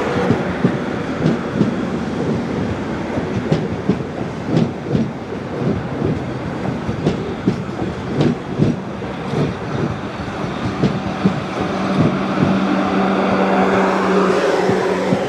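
A South Western Railway multiple-unit train passing close by, its wheels clicking over rail joints and points. A steady low hum grows louder near the end as the last carriage goes past.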